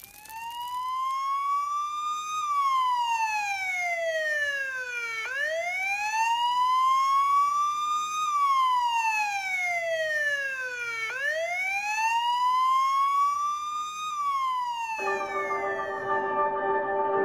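A siren wailing slowly: three long cycles, each rising in pitch for about two seconds and gliding down for about three. Near the end it gives way to music with sustained tones.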